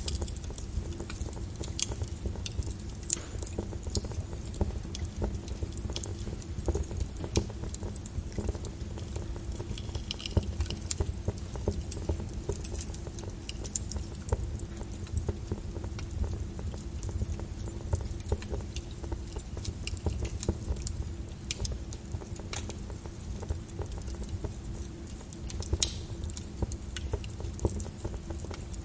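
Wood fire crackling in a fireplace: a constant scatter of irregular pops and snaps over a low rumble, with one louder snap near the end.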